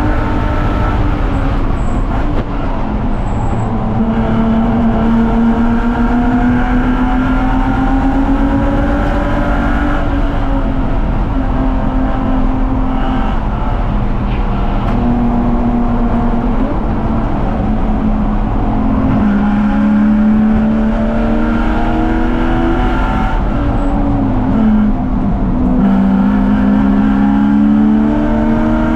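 BMW 330ci race car's inline-six engine running hard on track, its pitch climbing under acceleration and dropping back at gear changes several times.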